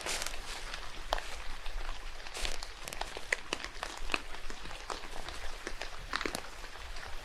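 Footsteps crunching on a wet forest trail, a louder step about once a second, among scattered irregular ticks of dripping rain.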